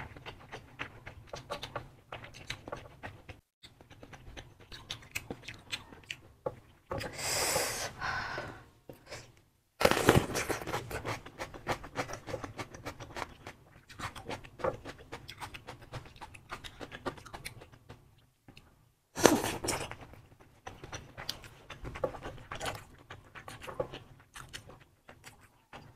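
Close-miked eating sounds: wet chewing and smacking of sausages in spicy sauce, with many small mouth clicks. A few longer breathy rushes stand out, the loudest about ten seconds in, another near the twenty-second mark.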